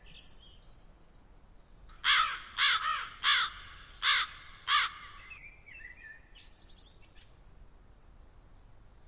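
A corvid giving five loud, harsh caws in a quick series, with small songbirds chirping faintly before and after.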